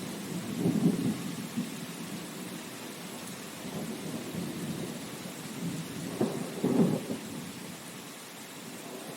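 Steady rain hiss with low rolling rumbles of thunder, swelling about a second in and again around six to seven seconds in, then easing off near the end.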